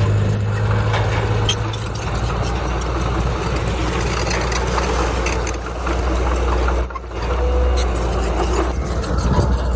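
Heavy diesel engine running steadily. Its note drops to a lower pitch about two seconds in, and there is a brief dip about seven seconds in.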